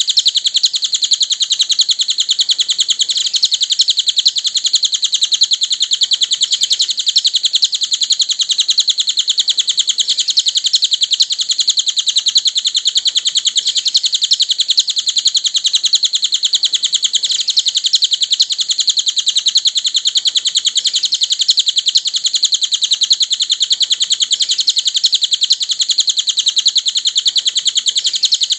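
Cililin bird song: a fast, unbroken trill of high chirps that goes on steadily without pause, as in a masteran recording used to train songbirds.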